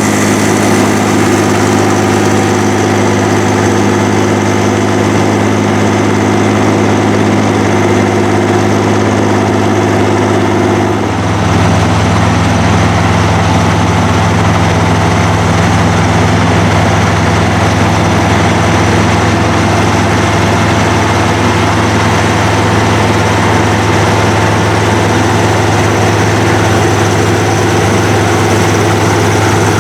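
Heavy diesel engines of a Fiat-Allis 14C crawler and a New Holland G240 tractor running steadily under load while deep plowing. The engine note changes suddenly about eleven seconds in.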